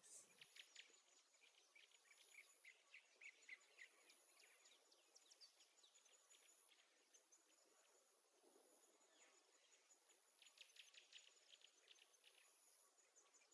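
Near silence: room tone with faint, scattered light ticks.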